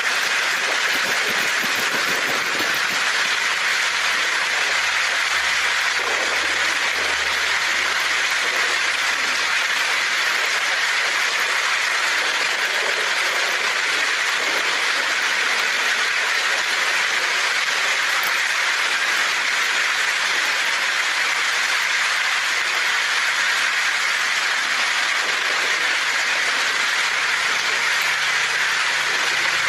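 Heavy rain pounding steadily on a tin roof, a dense even hiss with no breaks.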